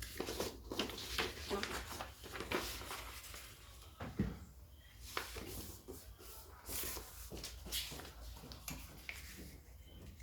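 A sheet of paper being folded and creased by hand: a run of irregular crisp rustles and crackles.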